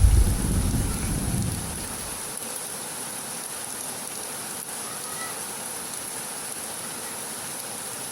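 Heavy rain falling steadily, with a low rumble of thunder dying away over the first two seconds.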